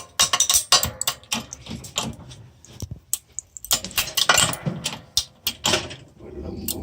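A 1:32 scale toy police Chevy Suburban cracking and crunching as it is crushed: a rapid, irregular series of sharp clicks, snaps and creaks as its body and windows give way.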